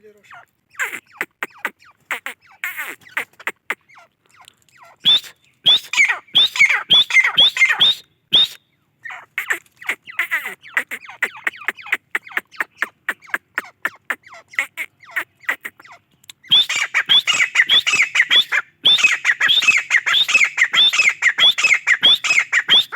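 Grey francolin calling in rapid runs of short, sharp notes that sweep upward. The densest, loudest bouts come about five to eight seconds in and over the last six seconds.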